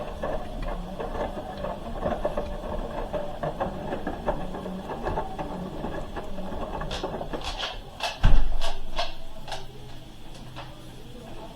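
Hoover H-wash 300 Plus washing machine running a wash, the drum turning the load with a busy mechanical churning. About seven seconds in comes a run of sharp clicks with one heavy thud, then a quieter low hum.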